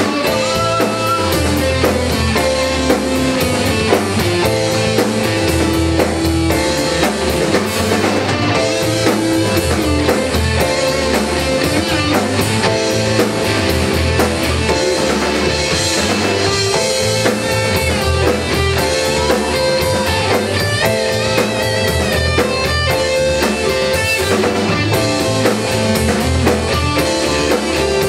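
Instrumental section of a rock song: electric guitars over a drum kit keeping a steady beat, with no singing.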